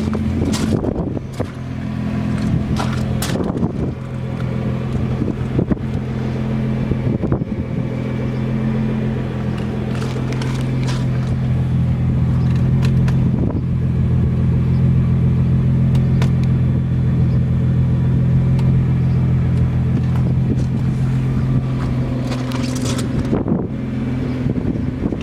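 Nissan GT-R's 3.8-litre twin-turbo V6 idling steadily, with scattered clicks and rustles over it.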